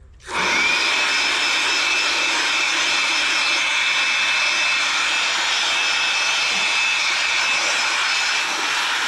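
Air blowing hard through a lawn-mower air filter element to clean it out: a loud, steady rush of air that starts abruptly just after the start, with a thin high whistle over it.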